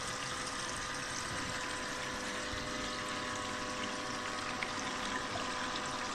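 Water rushing steadily down a small six-inch sluice box from a hose-fed spray bar, washing over silicone riffle mats, with a faint steady hum underneath.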